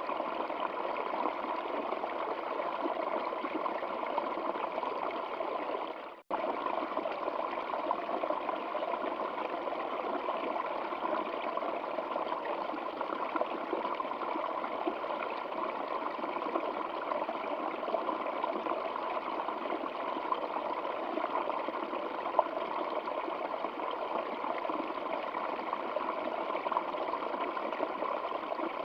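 Flowing stream water running and trickling steadily. It cuts out for an instant about six seconds in, then carries on.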